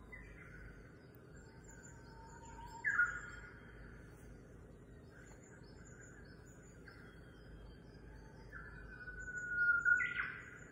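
Birds whistling, with two louder calls about three and ten seconds in, over faint, regularly repeating high chirps.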